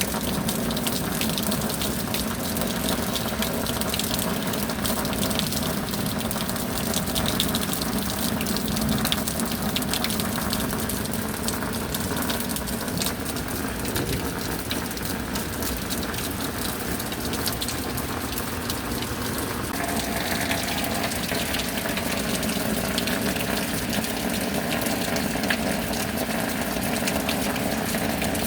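Steady rain falling, a dense patter of drops, with a steady low hum underneath that changes pitch about twenty seconds in.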